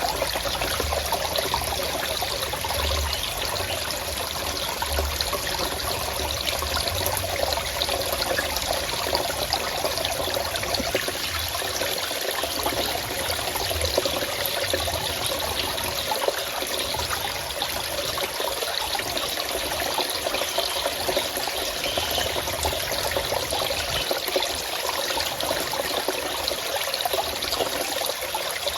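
Forest stream water running and trickling steadily, a continuous bubbling splash.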